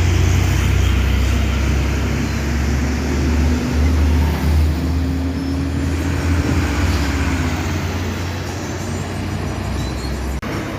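Diesel truck engine running with a loud, deep, steady drone and a faint whine that slowly rises and falls in pitch. The sound breaks off for an instant near the end.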